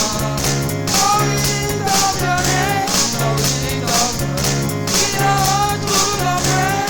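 Upbeat church praise-band music with a steady beat: a repeating bass line, drums with cymbal or shaker hits about twice a second, and a wavering melody line above.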